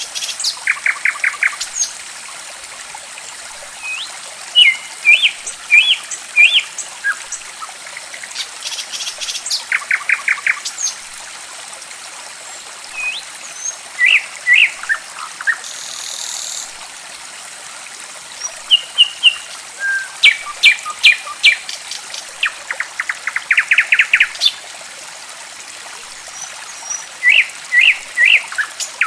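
Songbirds chirping and singing, with short whistled notes and quick rattling runs of notes, over a steady trickle of running water.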